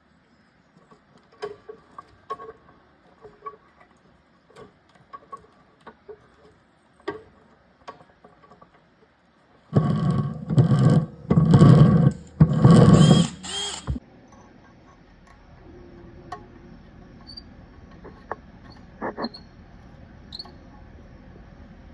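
Scattered light clicks and taps of hardware being handled, then a power drill run in four short bursts of about a second each. A faint steady hum with a few clicks follows.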